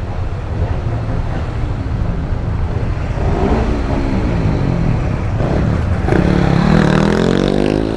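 150cc motorcycle engine running under a steady low rumble, rising in pitch several times from about three seconds in as it accelerates, the last and longest rise climbing toward the end.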